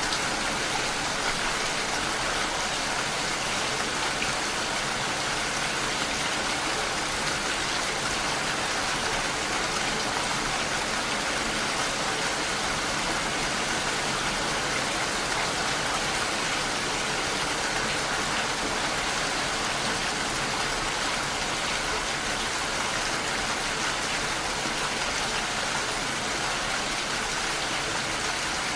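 Steady rain, an even unbroken hiss that holds the same level throughout.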